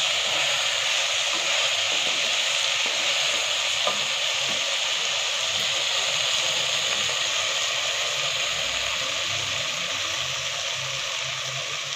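Chicken and masala frying in hot oil in an aluminium pot, a steady sizzle, stirred now and then with a wooden spatula. The oil has separated from the masala: the fully fried bhuna stage of a chicken curry.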